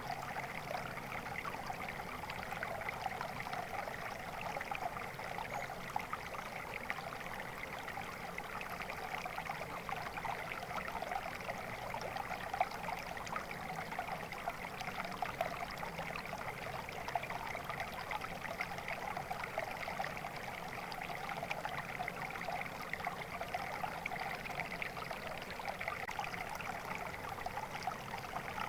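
Water flowing steadily, an even, unbroken rush with no pauses or changes.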